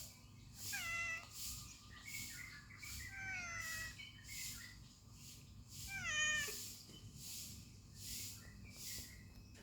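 Domestic cat meowing three times, each call falling in pitch, the last the loudest, over a steady rhythm of airy noise pulses about three every two seconds.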